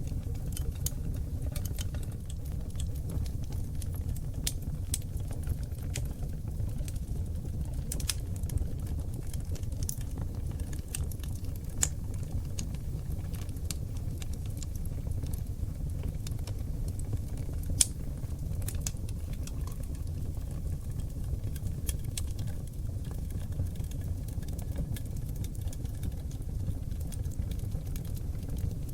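Oak log fire burning in a fireplace: a steady low rumble of flames with frequent small crackles and pops, two of them sharper, about twelve and eighteen seconds in.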